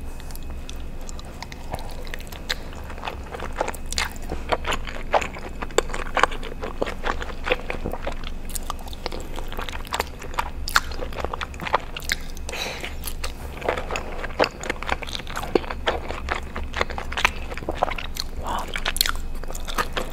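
Close-miked chewing of cheesy Alfredo pasta: steady mouth sounds with many sharp, irregular clicks and smacks.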